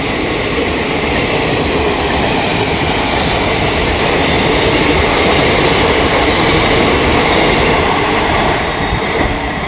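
Train hauled by a WAG-9 electric freight locomotive running past, its wheels on the rails making a steady, loud rumble and rail noise that eases slightly near the end.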